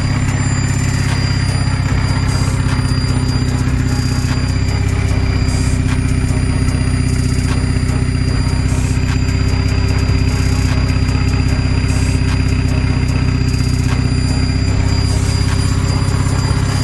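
Turbocharged Toyota 2RZ four-cylinder engine in an AE86 Corolla idling steadily.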